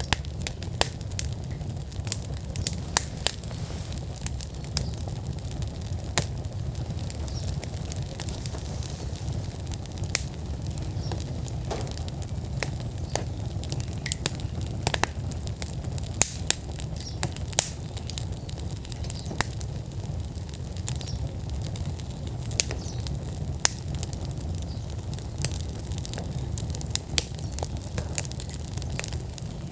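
Outdoor wood fire burning in a fire pit: a steady low rumble of flames under frequent, irregular crackles and sharp pops from the burning logs.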